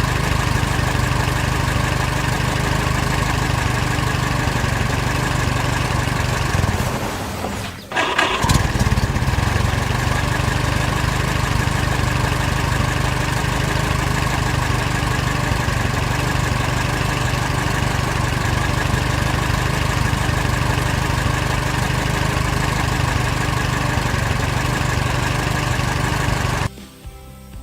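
A motor engine running steadily, with a low hum and a thin high tone; it cuts out for a moment about eight seconds in, restarts, and stops abruptly near the end.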